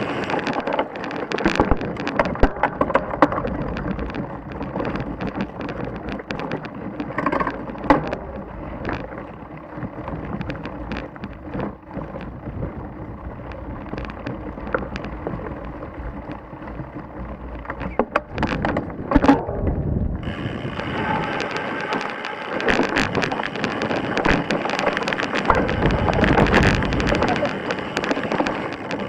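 Mountain bike descending a loose, rocky trail: tyres crunching and bouncing over stones, with a constant clatter of chain and frame and many sharp knocks from impacts, over wind noise on the microphone.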